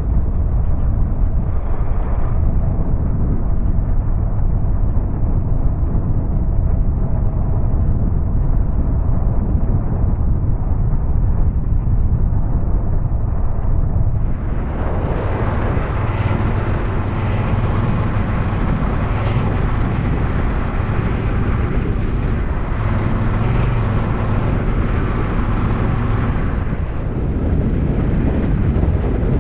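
A Honda Rebel 300's single-cylinder engine running while the bike is ridden, with wind rushing over the microphone. The engine's steady hum stands out more from about halfway and eases off near the end.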